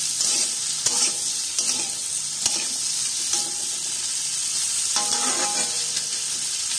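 Diced vegetables sizzling in mustard oil in a kadai while a metal spatula stirs and scrapes them, with now and then a sharp click of the spatula against the pan.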